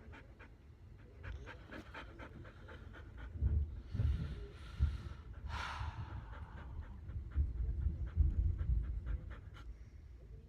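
A dog panting rapidly and heavily, with two brief hissing or rustling noises about halfway through. It is an anxious dog that will not settle during a thunderstorm.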